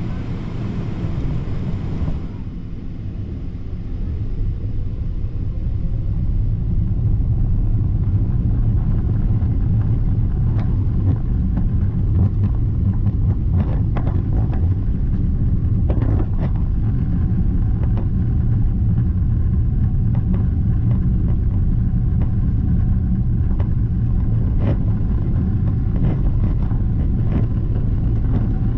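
Steady low rumble of a moving vehicle, building over a few seconds about a quarter of the way in and then holding steady, with a few faint clicks.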